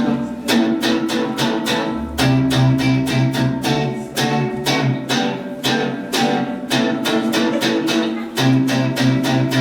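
Live band playing an instrumental intro: guitar strummed in a steady, quick rhythm over changing low bass notes.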